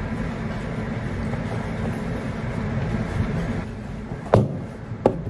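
Steady low rumble of a vehicle in motion, easing off a little past the middle, with two sharp knocks near the end.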